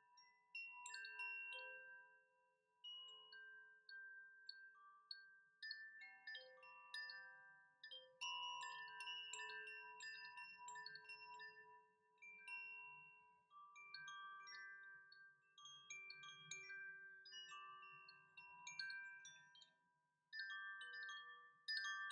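Chimes ringing faintly: irregular strikes of several bright metal tones, each ringing on and overlapping the next.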